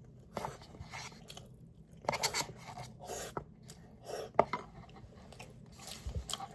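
A person chewing a mouthful of rice close to the microphone: irregular wet chewing bursts with a few sharp clicks.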